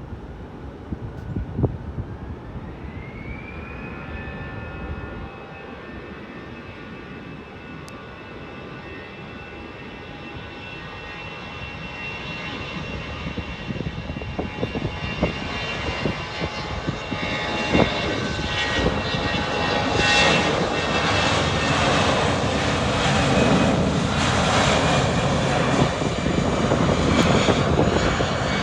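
Airplane engines during takeoff: a whine rises in pitch about two to three seconds in, then the engine noise grows steadily louder and fuller.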